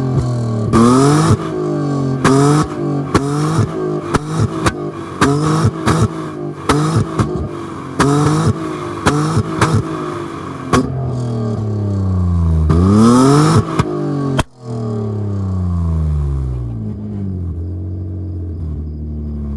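BMW E34's exhaust as the engine is blipped again and again, the pitch rising and falling with each rev and popping and crackling as it comes off the throttle. Near the middle it is taken up higher in one longer rev, cut off sharply, then drops back to a steady idle.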